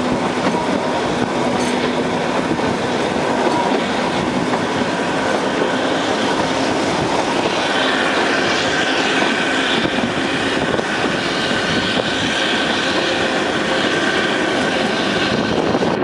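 Kalka–Shimla narrow-gauge train running, heard from an open coach window: a steady rumble and clatter of wheels on rail. From about halfway through, a thin high wheel squeal joins in as the train rounds a curve.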